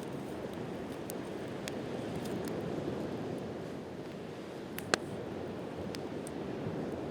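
Waves washing onto the shore in a steady rush, with a wood campfire crackling over it in scattered sharp snaps and one louder pop a little before five seconds in.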